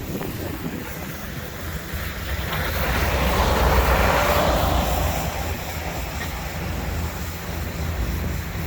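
Wind rumbling on the microphone, with a vehicle passing by that swells and fades away from about two to five seconds in.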